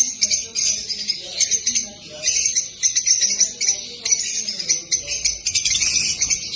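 A group of caged lovebirds chattering: many shrill, rapid chirps overlapping in a dense, continuous stream.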